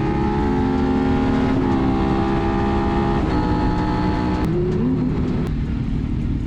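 Motorcycle riding noise: a steady engine and wind rumble, with a set of sustained tones over it that jump to new pitches every second or so.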